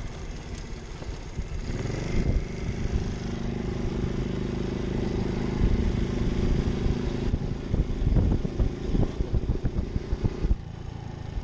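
Pit bike engine revving up about two seconds in and holding steady high revs for several seconds, then a choppy stretch of uneven bursts and knocks before it drops off near the end.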